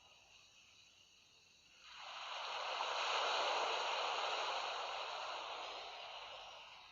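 A sea wave washing ashore: a soft hiss that swells about two seconds in, peaks, then slowly fades as the water draws back.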